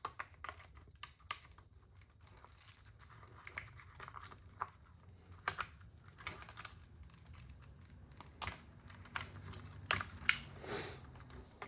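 Irregular light clicks, taps and short rustles of small RC car parts and tools being handled on the bench, with a slightly longer rustling scrape near the end.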